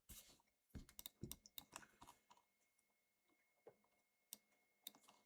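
Faint computer keyboard typing: a quick run of keystrokes over the first two seconds or so, then a few single clicks spaced apart.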